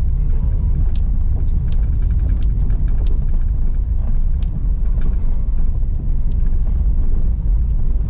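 Car driving on an unpaved road: a steady low rumble of engine and tyres, with scattered small clicks and knocks throughout.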